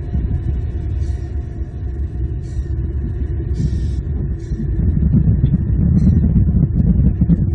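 Loud, steady low rumble on an outdoor nest-cam microphone, growing louder about five seconds in, with short high chirps about once a second over it.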